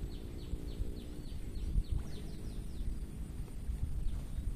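A bird calling a run of short, falling chirps, about three a second, that quicken just before they stop around two and a half seconds in, over a steady low outdoor rumble.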